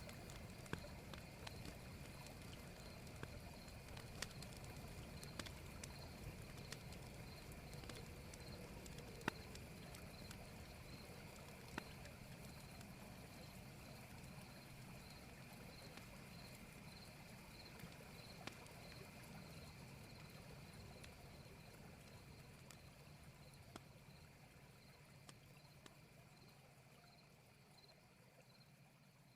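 Faint night-time riverside ambience: a regularly repeating high chirping over a low, steady murmur of flowing water, with a few small clicks, fading out near the end.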